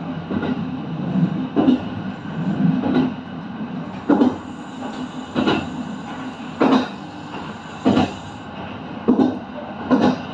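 Kintetsu electric train running on the line, its wheels knocking over rail joints about every 1.2 seconds over a steady low running hum.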